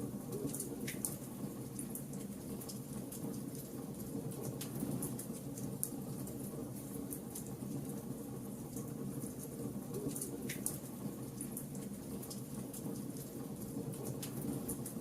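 Wood fire burning: a low steady rush from the flames under frequent sharp crackles and pops of burning wood, with two louder pops about a second in and again near ten seconds in.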